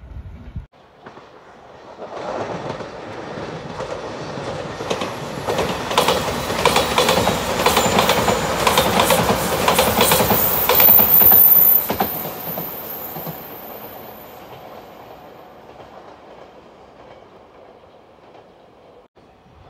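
A Shiokaze limited express electric train passes: a rumble that builds up, peaks with a quick run of wheel clicks over the rail joints, then slowly dies away. A brief high-pitched wheel squeal comes near the peak.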